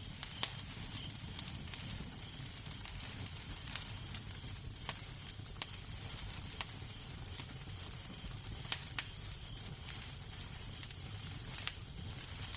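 Wood fire crackling in a fireplace: a steady hiss and low rumble with sharp, irregular pops and snaps.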